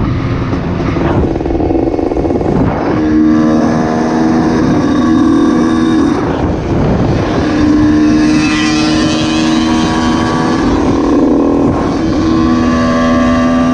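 Vehicle horns blaring in long, steady blasts lasting several seconds each, sounding and stopping repeatedly over engine noise from traffic and motorcycles.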